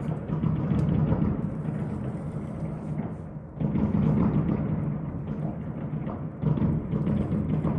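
Many fireworks going off in quick succession: a continuous rumble of booms and crackle that swells again about three and a half seconds in and once more near the end.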